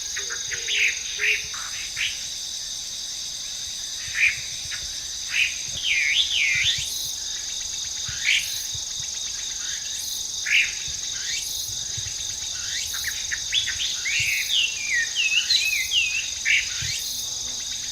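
Chinese hwamei (wambi) singing: loud, varied whistled notes and up-and-down slurred phrases with short gaps, coming thicker and more run-together in the second half. A steady high insect drone sounds underneath.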